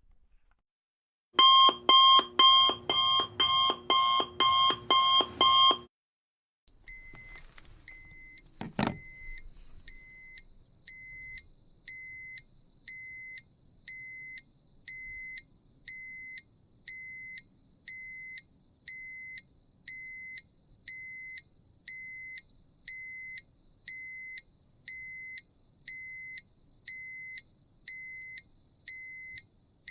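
Two alarm sound effects in turn. First a loud ringing alarm repeats about twice a second for about four seconds and stops. After a short gap, an electronic alarm starts: a steady high tone with a lower beep pulsing about once a second, and a single knock shortly after it begins.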